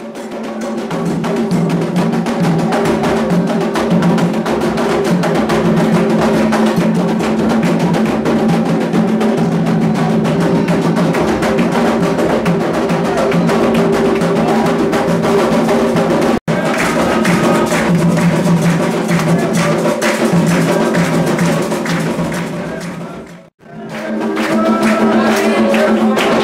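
Candomblé ritual music: hand drums and sharp wood-block-like percussion beating fast under steady held voices. The sound breaks off abruptly twice, about two-thirds of the way through and near the end.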